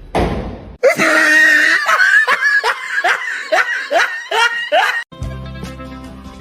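A person laughing hard in a run of about nine rising 'ha' pulses, about two a second, after a brief rush of noise at the start. Music comes in near the end.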